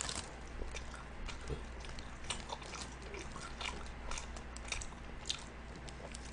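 Close-up mouth sounds of someone biting and chewing Kyochon Honey Combo fried chicken: a run of irregular small crunches and wet smacks.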